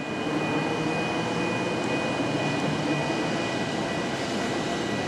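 JR East E217-series electric train running slowly along the platform: a steady rumble with a thin, high whine held at one pitch.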